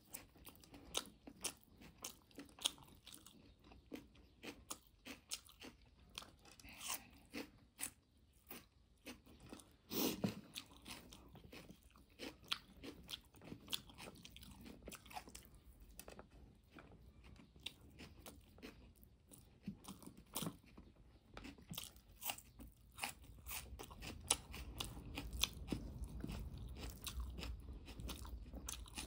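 Close-miked eating: a person chewing and biting mouthfuls of instant noodles and chopped raw cabbage, with many short sharp crunches. One crunch, about ten seconds in, is louder than the rest.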